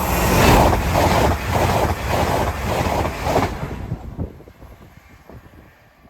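TransPennine Express passenger train passing at speed, its wheels beating about twice a second over the rail, with wind buffeting the microphone. The sound dies away after about four seconds as the train moves off.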